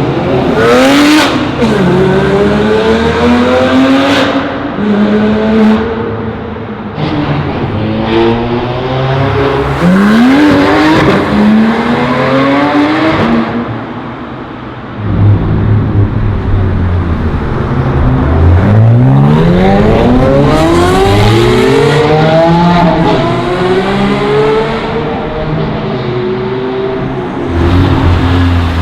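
High-performance car engines accelerating hard, one after another, revving up through the gears: each engine note climbs in pitch, drops at the upshift and climbs again. There is a short lull about halfway through before another car pulls away with rising revs, and another starts near the end.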